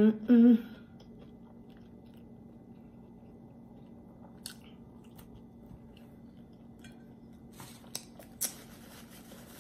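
A person chewing a mouthful of hamburger: faint wet mouth clicks and smacks, a few about halfway through and a small cluster near the end. A short hummed "mm" opens it.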